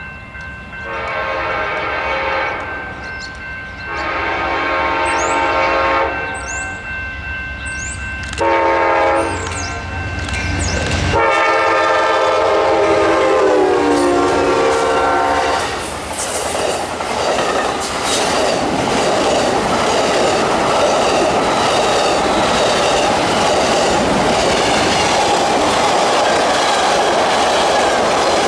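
Amtrak GE P42DC diesel locomotive sounding its horn in a long, long, short, long pattern, the grade-crossing signal. The last long blast drops in pitch as the locomotive passes close by, over the low rumble of its engine. Then the passenger cars roll past with a loud, steady rail clatter.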